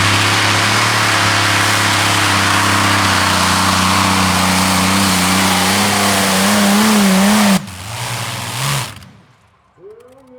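Modified tractor-pulling tractor running flat out under load, a loud steady engine note that wavers and climbs slightly in pitch. About seven and a half seconds in the engine cuts off suddenly and winds down, which marks the end of the pull.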